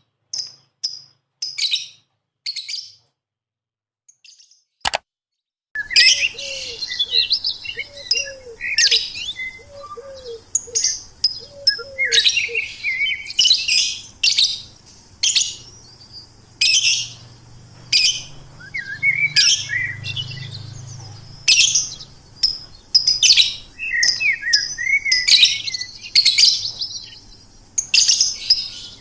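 Bird chirping and twittering in short, high chirps. A few separate chirps come first, then a pause broken by a single click. From about six seconds in the chirping runs densely and almost without break, with a lower, repeated falling call underneath for several seconds.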